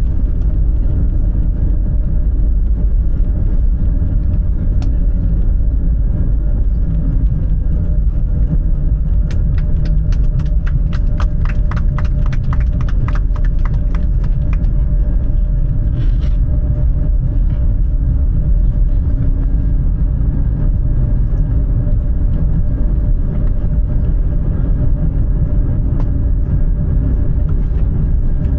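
Inside the cabin of an Airbus A320-family airliner: a steady low rumble of the engines and airflow. About ten seconds in comes a run of quick rattling clicks lasting roughly five seconds.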